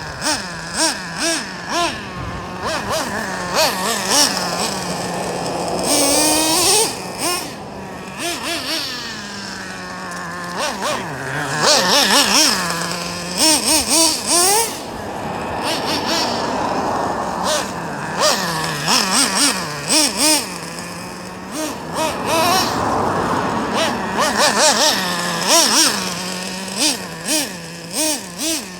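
Traxxas Revo RC monster truck's 3.3 nitro engine running as the truck is driven, revving up and down with many short throttle blips and settling back to a steady idle in between.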